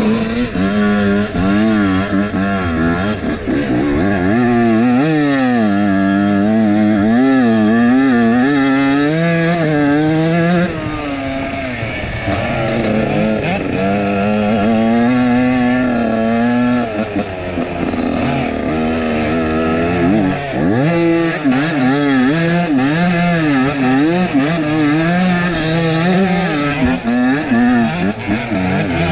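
Husqvarna WR 125 two-stroke enduro motorcycle engine running hard on a rough dirt trail, its revs rising and falling constantly with the throttle. It eases off briefly about eleven seconds in.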